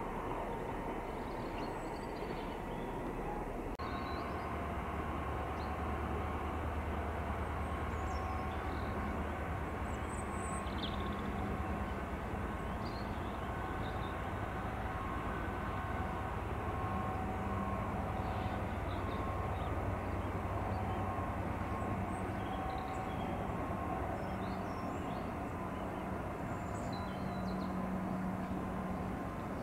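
Freight train wagons rolling past at a distance: a steady rumble with faint held tones above it. The sound changes abruptly about four seconds in, where one recording gives way to another.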